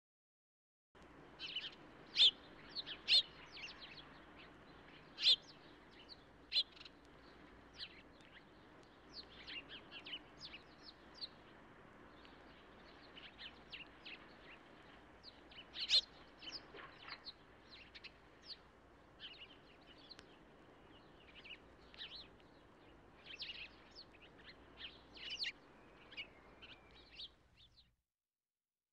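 Birds chirping: many short, separate calls over a faint steady background, starting about a second in and stopping shortly before the end.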